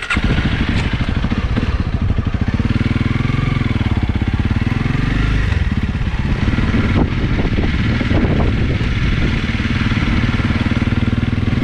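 Honda CRF300L Rally's single-cylinder engine running steadily, its pitch rising and falling a little about a third of the way in.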